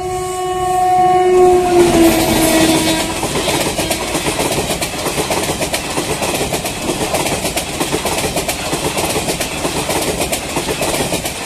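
Express train passing at speed: the locomotive horn sounds as it approaches, drops in pitch and ends about three seconds in. The coaches then rush past with a rapid clickety-clack of wheels over the rail joints.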